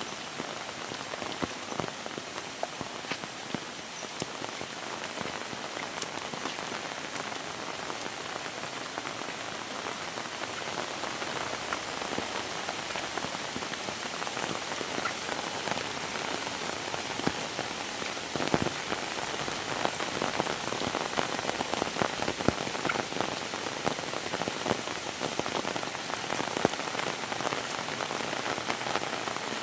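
Heavy rain falling, a steady hiss thick with sharp drop impacts, growing a little louder about halfway through.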